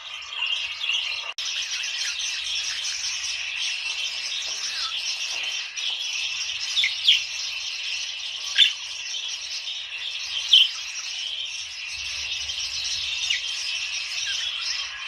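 A flock of budgerigars chattering and warbling without a break, with a few louder, sharp calls about halfway through.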